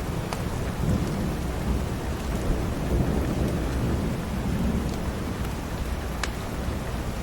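Steady rain with low rumbling thunder swelling and fading, and a few sharp pops like a wood fire crackling.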